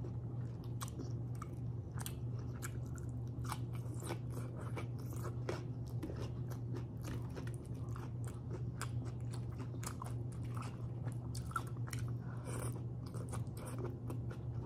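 A person chewing a mouthful of rice and sautéed string beans close to the microphone, with many small wet clicks and smacks from the mouth, over a steady low hum.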